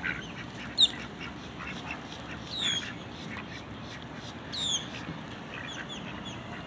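A flock of ducks quacking in short scattered calls, with another bird's sharp falling whistled call three times, the first about a second in being the loudest sound.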